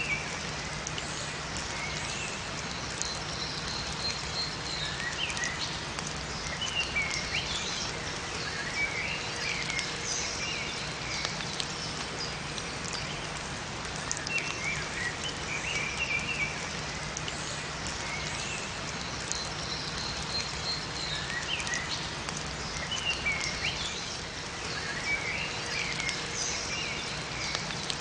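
Steady rain falling in a forest, with small birds chirping in short bursts every few seconds.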